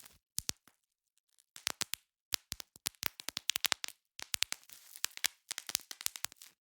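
Bubble wrap being popped by hand: sharp, irregular pops in quick clusters, with the plastic crinkling between them. There is a pause of about a second early on, then dense popping resumes.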